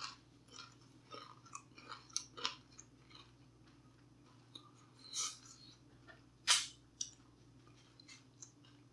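A person chewing food close to the microphone, with small wet mouth clicks and two short, louder crisp sounds about five and six and a half seconds in.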